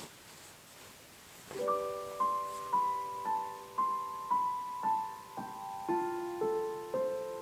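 Background piano music: a slow melody of single struck notes, each ringing and fading, about two a second, coming in about a second and a half in.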